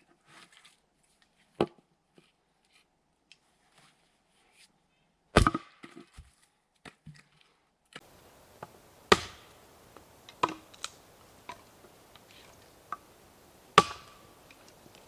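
Sharp chopping strikes on wood, about five separate blows a few seconds apart with lighter knocks between them.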